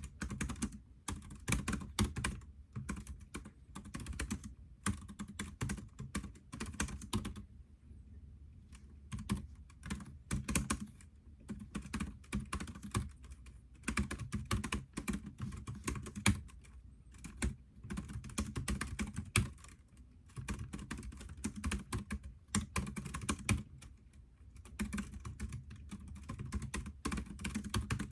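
Typing on a computer keyboard in quick runs of keystrokes, broken by short pauses.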